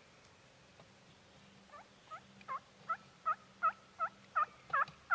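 A series of about ten turkey yelps, evenly spaced a little under three a second and growing louder with each note.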